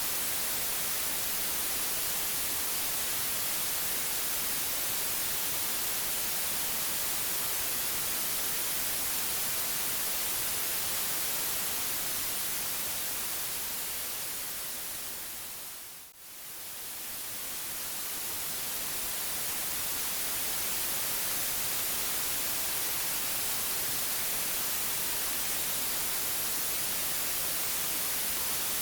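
Steady white noise, an even hiss across all pitches. About halfway through it fades smoothly down to a brief dip and fades back up again.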